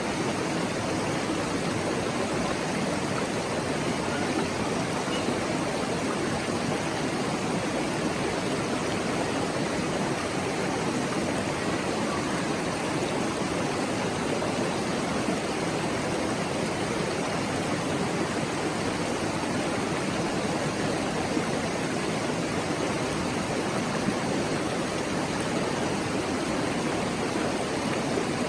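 River water flowing over rocks: a steady, continuous rushing murmur with no breaks.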